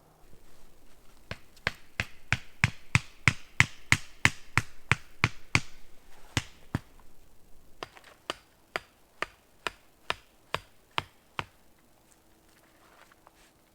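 A tool striking wood in two runs of sharp knocks: about three a second for five seconds, then after a short pause about two a second for a few seconds.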